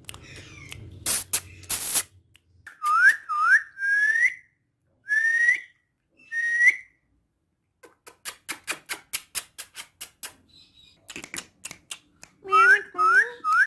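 Ringneck parakeet whistling short rising notes, then clicking rapidly several times a second, then whistling again near the end.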